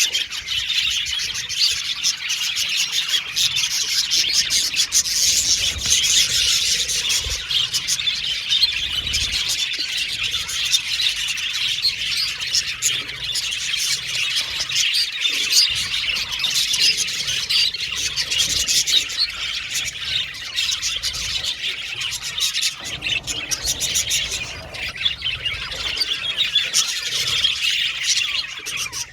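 A flock of budgerigars chirping and chattering together without pause, many warbling calls overlapping, with occasional sharper squawks.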